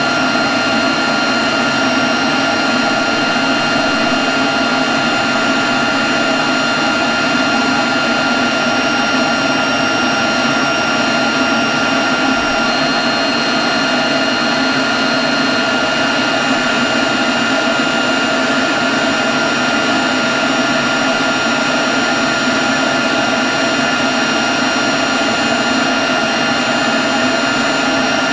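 Leaf blower running steadily at constant speed: a loud rush of air with a steady high whine over it.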